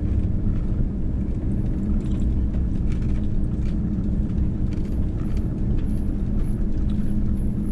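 Steady low road rumble of a Ram ProMaster camper van driving on the highway. It starts and stops abruptly.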